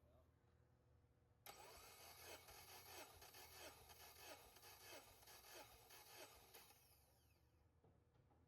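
Subaru FA20 turbo engine cranked over on its starter for a compression test, without firing. It starts suddenly about a second and a half in, pulses evenly about one and a half times a second, and stops near the end.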